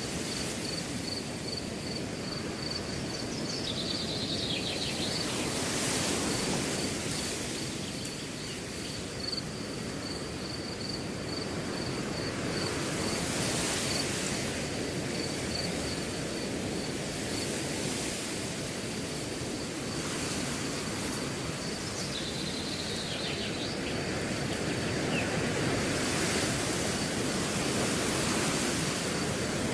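Wind rushing through a grass field in slow swells, with gusts about 6, 14 and 27 seconds in. Over it a cricket chirps in a high, evenly repeating pulse, and a short buzzy call sounds twice, near the start and about two-thirds through.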